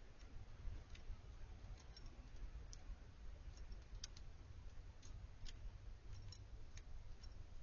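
Irregular sharp clicks and taps, about two a second, over a steady low rumble: small birds pecking and cracking seed at a backyard feeder.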